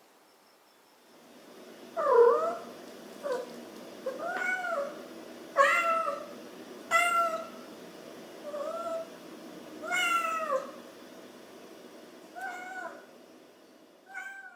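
A cat meowing repeatedly: about nine separate meows, each rising and then falling in pitch, over a low steady background hiss.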